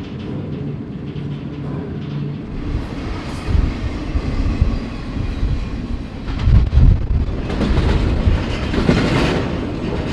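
Moving freight train heard from on board: steady deep rumble and clatter of wheels and cars, with heavier knocks a few times in the middle and a louder rush of noise near the end.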